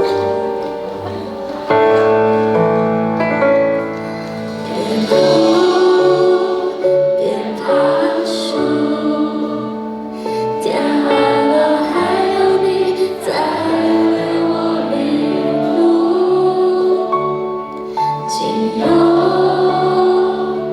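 A pop song played live over a backing track, with a female lead singer and the audience singing along in chorus.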